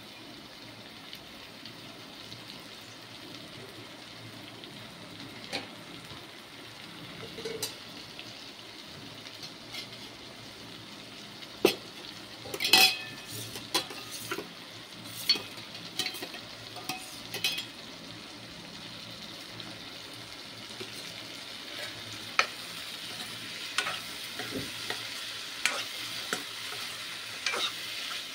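Green turkey berries, brinjal and masala frying in oil in a non-stick kadai, a steady sizzle. From about the middle on, a spoon stirring the pan adds scattered sharp clicks and scrapes against the pan.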